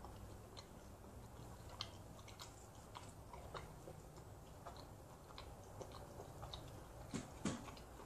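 Faint chewing of a mouthful of pizza: scattered soft mouth clicks and smacks, with two slightly louder ones near the end.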